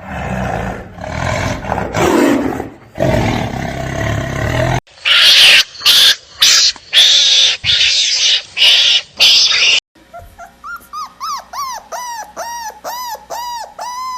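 Animal calls from several clips cut back to back: deep, rough growls for about five seconds, then a string of loud, harsh calls, then a quick run of short calls that rise and fall in pitch, about three a second.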